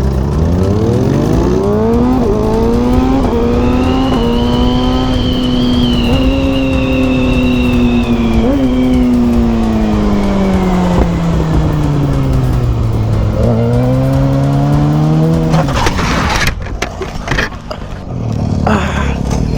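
Motorcycle engine pulling hard as the rider accelerates, holding steady revs, then slowly easing off before revving up again. About 16 seconds in, the engine note breaks off into a jumble of knocks and noise.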